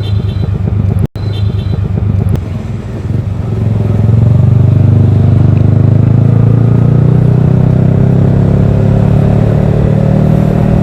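Yamaha R15 V3's single-cylinder engine running through a Daytona Evolution aftermarket exhaust, a deep, bassy steady note. It cuts out for an instant about a second in, then swells louder a few seconds in and holds there.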